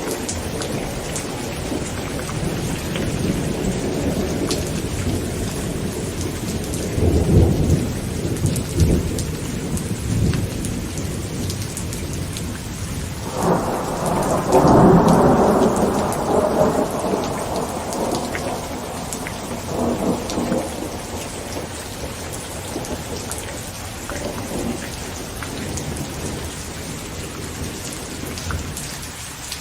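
Heavy rain falling steadily on a tent, with thunder rumbling: a low rumble about seven to ten seconds in, a louder peal from about thirteen to seventeen seconds, and a smaller rumble around twenty seconds.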